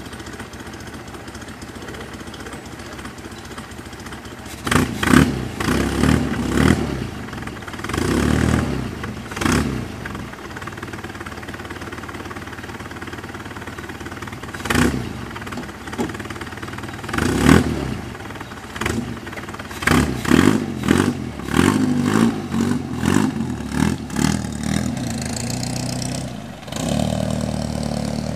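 Vintage roadster's engine running at idle, blipped with the throttle in a dozen or more short revs, then drawing away steadily near the end as the car pulls off.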